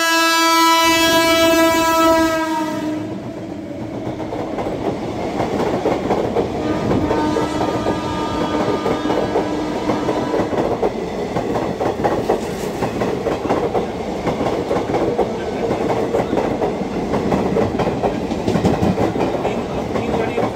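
An Indian Railways express train's electric locomotive sounds its horn, one held note, for about three seconds as it approaches. The passenger coaches then rush past at speed with a steady clatter of wheels over the rail joints, and a fainter horn blast sounds from about seven to ten seconds in.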